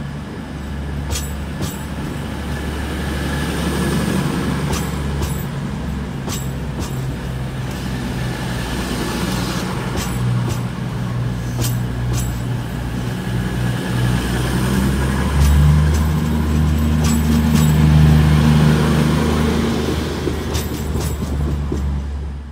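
A train in the station with its engines or motors running, making a steady low hum that grows louder about two-thirds of the way through. Scattered sharp clicks sound over it, and it cuts off suddenly at the end.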